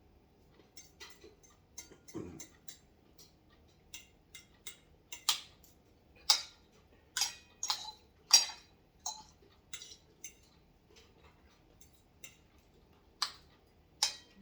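Close-up mukbang eating sounds: irregular clicks and smacks of chewing, loudest from about five to nine seconds in and again near the end.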